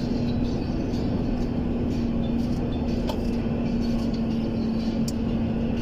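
Truck engine running steadily while driving, heard from inside the cab, with a constant low drone and rumble.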